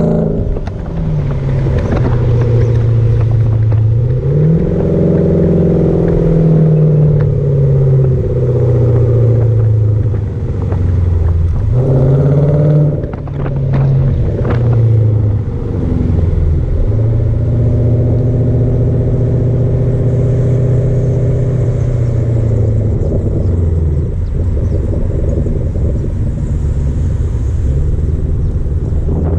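Hyundai Genesis sedan V8 with a muffler-deleted custom exhaust, driving: the engine note rises and drops several times as it accelerates and shifts, then holds a steady cruising drone through the second half. A few sharp clicks sound about halfway through.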